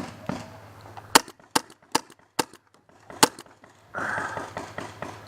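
Paintball marker firing five single shots, sharp cracks spaced unevenly over about two seconds. A steady hiss of noise comes in near the end.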